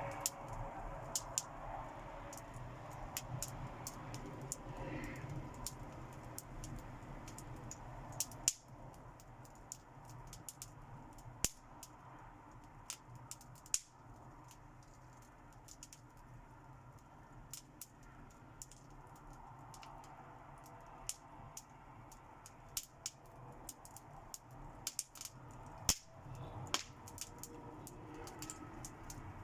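Fire crackling: sharp, irregular pops and snaps over a low steady hiss.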